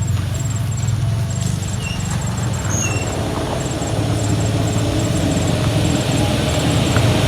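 Motor vehicle engine and road noise running steadily, growing louder toward the end.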